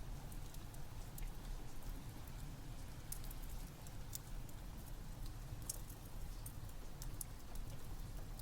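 Ambient mix of steady rain and a crackling wood fire: a continuous low rumble and hiss with scattered sharp crackles and pops.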